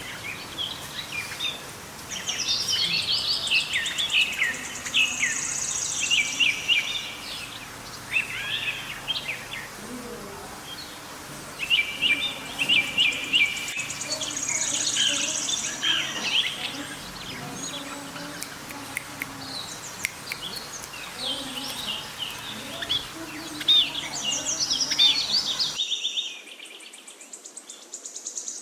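Many small pet birds chirping and chattering over one another in dense, repeated high-pitched bursts.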